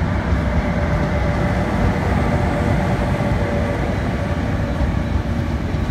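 A locomotive-hauled passenger train rolling past close by: a steady loud rumble of wheels on the rails, with a faint steady tone above it.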